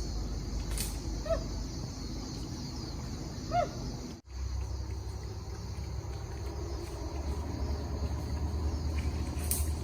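Rainforest ambience: a steady high insect hiss over a low rumble, with two short rising animal calls, one about a second in and one about three and a half seconds in.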